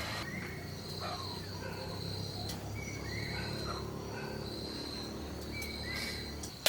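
Rural outdoor ambience: a steady high-pitched insect buzz with short bird chirps repeating every second or so over a low hum, and a sharp click at the very end.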